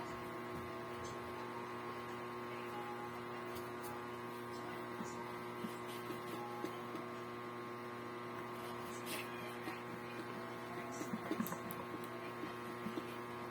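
Steady electrical hum made of several constant tones, with a few faint clicks near the end.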